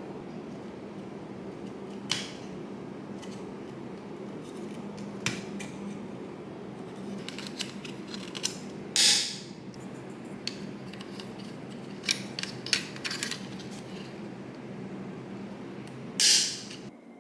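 Scattered clicks and knocks of tools and parts being handled over a steady low hum, with two short hissing bursts, one about nine seconds in and one near the end.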